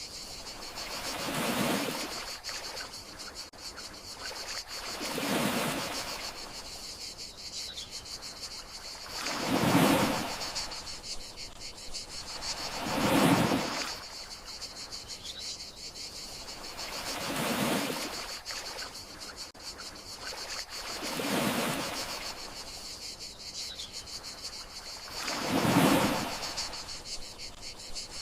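Gentle sea waves washing onto the shore, one swell rising and falling about every four seconds, seven in all, over crickets chirping steadily throughout.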